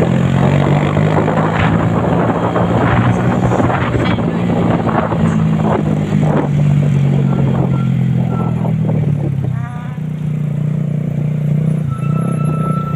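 Large truck's diesel engine running loud with a steady low drone and rough rattling noise, falling quieter about ten seconds in. A short steady high tone sounds near the end.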